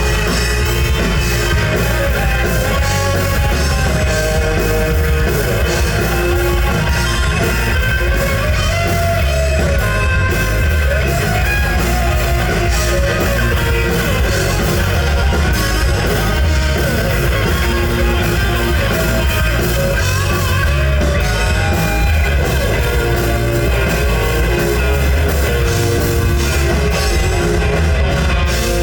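Rock band playing heavy metal: electric guitars with bending, wavering lead notes over bass and a drum kit, steady and loud throughout.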